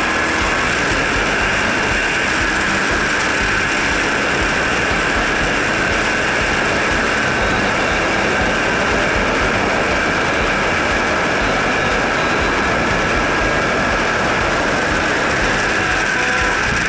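Kawasaki W800's air-cooled parallel-twin engine running steadily while riding, with an aftermarket muffler fitted, heard from right beside the engine and mixed with wind and road noise.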